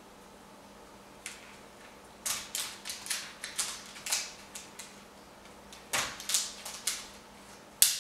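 Sharp clicks and clatters of small toys knocked about as an African grey parrot rummages in its toy box: quick irregular runs about two seconds in and again around six seconds, with one loud clack near the end.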